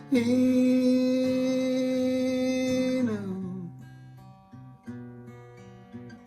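Acoustic guitar song: a singer holds one long note for about three seconds, sliding down at its end, over picked and strummed acoustic guitar, which then plays on alone.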